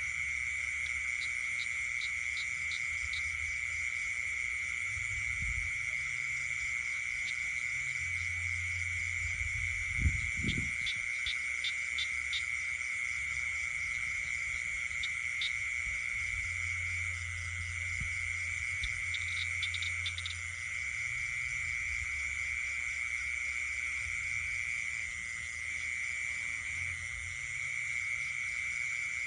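Night chorus of frogs and insects: a steady high insect trill with short runs of rapid clicking calls several times over it. A low hum comes and goes underneath, and there is a single dull thump about ten seconds in.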